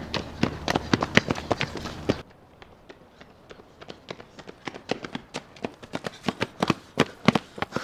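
Running footsteps: quick, sharp foot-strikes, about four or five a second. About two seconds in the background noise drops suddenly and the steps carry on.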